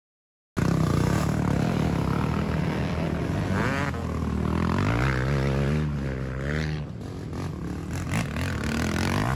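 A small engine running, its pitch swinging up and down as it revs, starting abruptly about half a second in.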